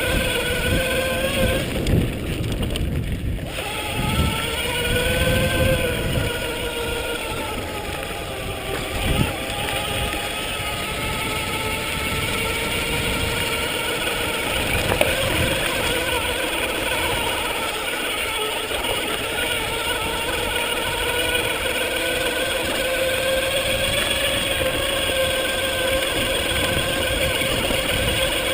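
Electric bike motor whining as it drives the bike, its pitch rising and falling with speed, over a low rumble of wind and tyres with a few knocks from bumps.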